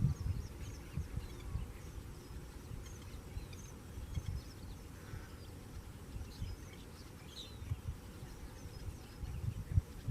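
Birds chirping: short, scattered high calls throughout, over a low, uneven rumble.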